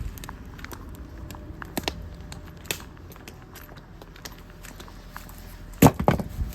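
Campfire crackling, with scattered sharp pops and a quick run of louder knocks about six seconds in.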